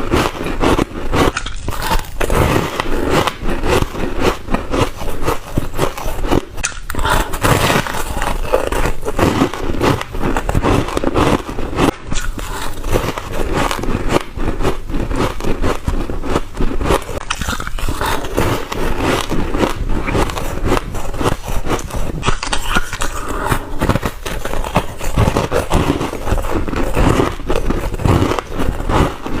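Close-miked biting and chewing of shaved foam ice and crushed ice: a dense, continuous run of loud crackling crunches.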